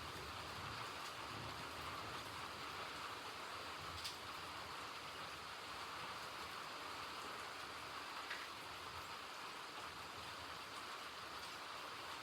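Steady rainfall, an even patter with a few louder single drops here and there.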